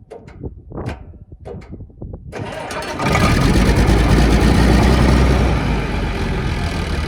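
A few sharp clicks and knocks, then the International 1566 tractor's six-cylinder diesel engine fires about two and a half seconds in and settles into loud, steady running. It starts once the loose starter cable has been tightened.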